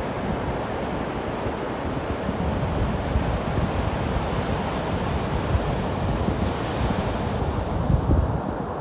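Ocean surf breaking and washing up the beach, a steady rushing hiss that swells brighter for a wave about two-thirds of the way through. Wind buffets the microphone with gusty low rumbling.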